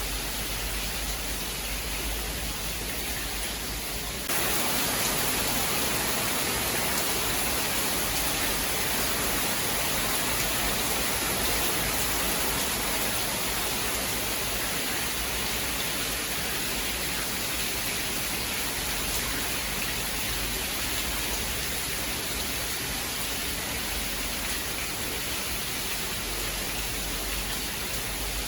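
Steady rain, a dense even hiss with no thunder heard. About four seconds in it switches abruptly to a brighter, slightly louder rain sound, as at a splice in the recording.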